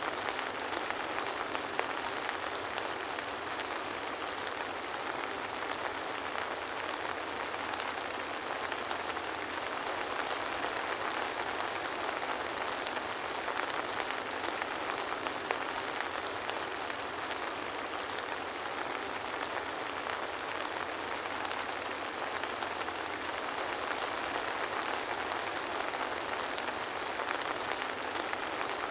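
Soft rain falling steadily, an even, unbroken patter of drops with no thunder.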